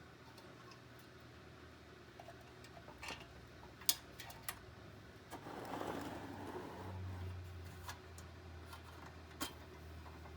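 Scattered light clicks and taps, the sharpest about four seconds in, with a brief rustle around six seconds and a low hum setting in just after it.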